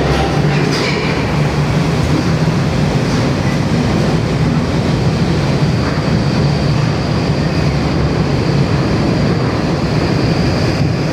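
Heavy truck on the move: a steady, loud drone of engine and road noise.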